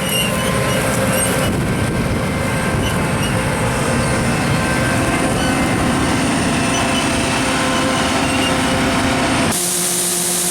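Combine harvester running steadily: a loud low rumble with several steady whining tones over it. About nine and a half seconds in the rumble cuts off abruptly and a steady hiss takes its place.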